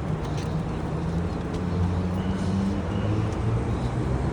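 Road traffic: a motor vehicle engine running with a steady low hum, growing a little louder about halfway through.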